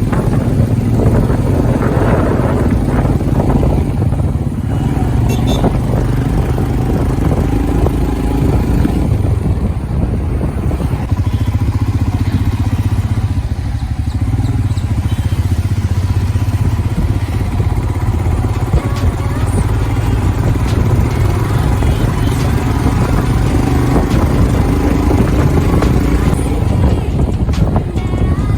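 Royal Enfield Himalayan's single-cylinder engine running steadily under way on the open road, a continuous low motorcycle drone with no breaks or gear-change gaps.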